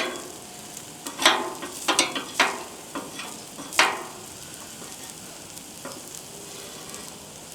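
A spatula scraping across a hot steel Blackstone griddle top four or five times in quick strokes, clearing burning tomato seeds, over a steady sizzle; the last few seconds are sizzling alone.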